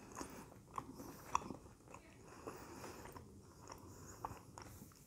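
Faint close-up chewing of a soft sandwich, with a few short sharp mouth clicks.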